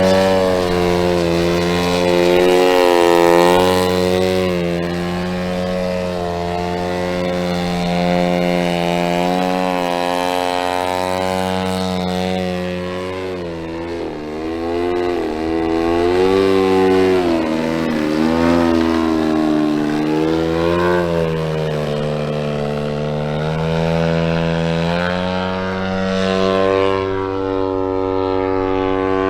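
Giant-scale RC aerobatic plane's 120cc DA twin-cylinder two-stroke gas engine and propeller running in flight. Its pitch holds fairly steady at first, then swings up and down several times through the middle as the throttle and the plane's path change, then settles again near the end.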